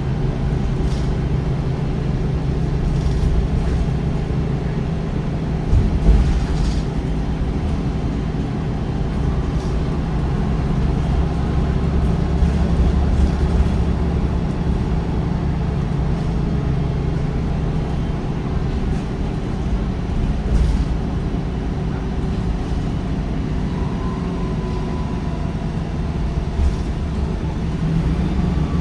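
MAN D1556LOH-10 diesel engine of a MAN bus with a ZF Ecolife 6AP1700B automatic gearbox, running steadily with a low, even drone. A few short knocks and rattles come through, and near the end a faint thin whine appears.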